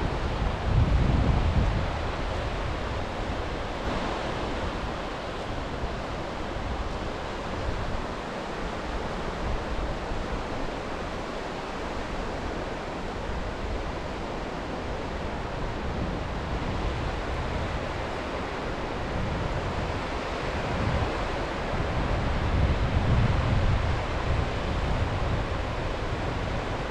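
Sea waves washing on the shore as a steady rush, with wind buffeting the microphone in low rumbling gusts about a second in and again near the end.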